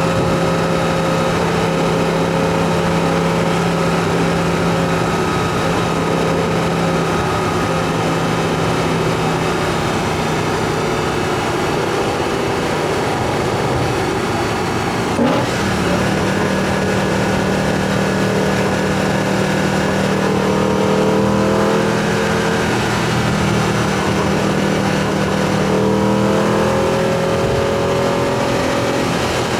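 BMW E90 M3's 4.0-litre V8 running under way, its intake noise through an Eventuri carbon plenum, held at a steady, slowly sinking note. About halfway a brief click and the engine note steps up, then climbs slowly as the revs rise.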